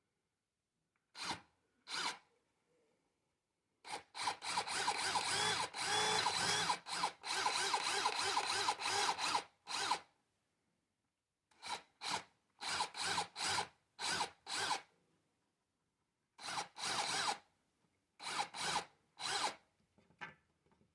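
Electric drill working a basswood handle in stop-start bursts: short pulses, then a longer stretch of drilling about four seconds in with brief breaks, then more short pulses.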